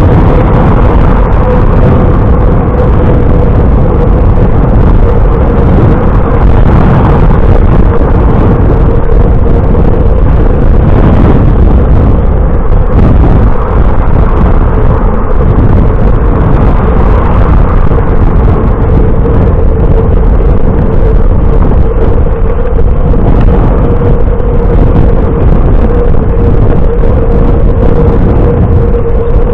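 Wind rushing over the microphone of a camera carried on a moving bicycle, a loud steady rumble with a constant whine held at one pitch throughout.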